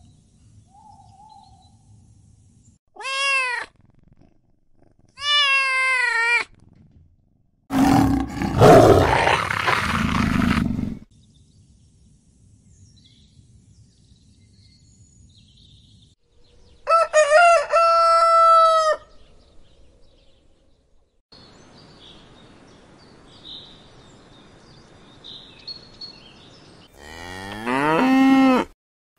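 A string of different animal calls one after another. There are two short pitched cries, then a loud, rough roar lasting about three seconds, which is the loudest sound. After that comes a quick burst of high squeals, and near the end a long call that starts low and rises.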